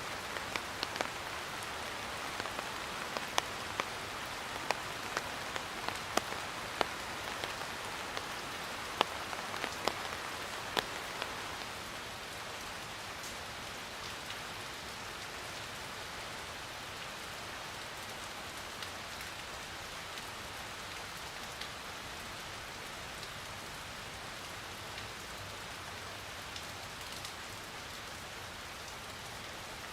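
Steady rain falling, with sharp individual drips clicking through the hiss. About eleven seconds in the drips stop and the rain goes on, slightly quieter and even.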